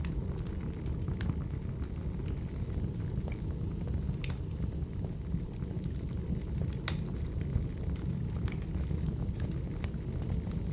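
Wood fire burning: a steady low rumble of flames with scattered sharp crackles and pops, the loudest about four and seven seconds in.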